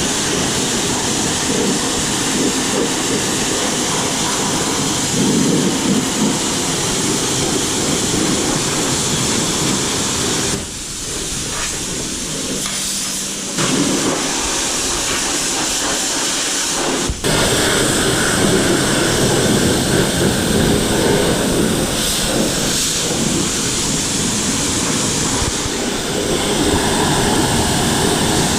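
Water spraying onto an engine bay to rinse off degreaser: a steady hiss of spray that drops quieter for several seconds about halfway through, then comes back abruptly.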